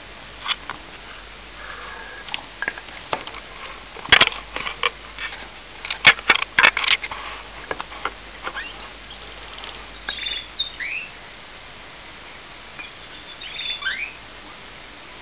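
Pet canary: a scatter of sharp clicks and taps, loudest about four seconds in and again around six to seven seconds, then a few short rising chirps around ten seconds and again near the end.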